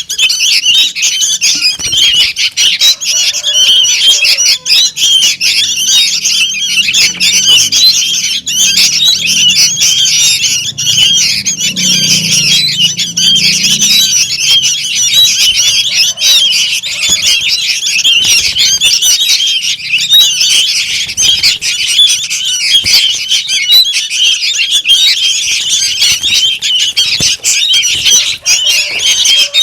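Sooty-headed bulbul chicks calling noisily: a dense, unbroken chatter of many short, high, overlapping chirps.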